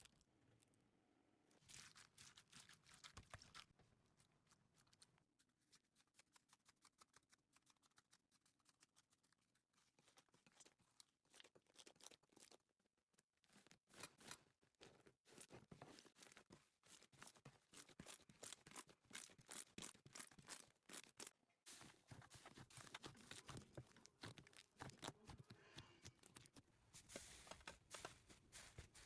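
Slime being squeezed and pressed by hand: a faint run of small crackling pops and clicks. The pops are sparse at first and come quicker and denser in the second half.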